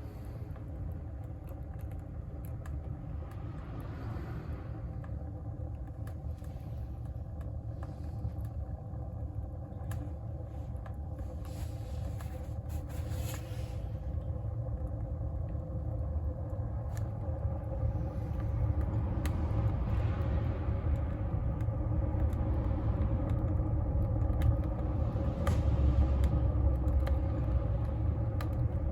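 Wood fire burning in a wood stove: a steady low rumble of the flames and draught that slowly grows louder, with scattered sharp crackles and pops from the burning wood.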